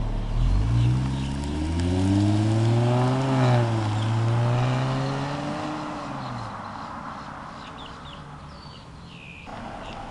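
Jaguar XJL's 3.0-litre supercharged V6 pulling away from a standstill and accelerating, its engine note rising, dipping at an upshift about three seconds in, rising again and then fading into the distance. Birds chirp as it dies away.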